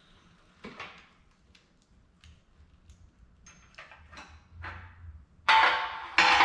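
Light scattered clicks and knocks of things being handled, then two loud metal clanks near the end, less than a second apart, each followed by a ringing tone that slowly fades.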